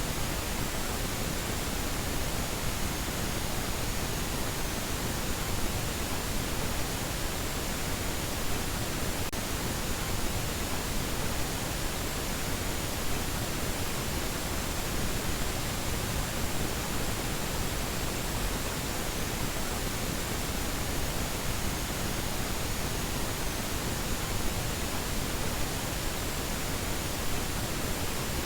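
Steady, even hiss of static noise, unchanging throughout, with a faint high whistle.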